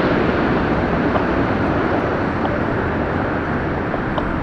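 Jet engines of a landing Boeing twin-engine widebody airliner, a steady loud rush of noise that eases slightly over the few seconds.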